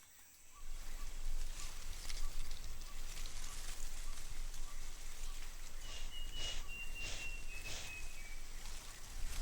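Steady rain falling on rainforest foliage, starting abruptly about half a second in, with surges in the hiss. Near the middle a bird gives a thin whistle held for about two seconds, stepping slightly down in pitch.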